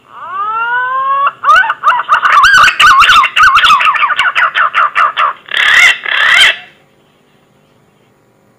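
Punai (green pigeon) call played as a hunting lure: a rising whistle, then a fast run of wavering, warbling whistled notes, ending in two harsher notes.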